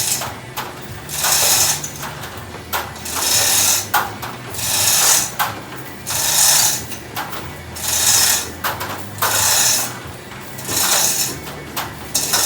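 A manual rigging hoist being worked to lift one end of a heavy tank: a rhythmic rasp of ratchet clicks, chain and pawl in bursts about every one and a half seconds, eight or nine strokes in all.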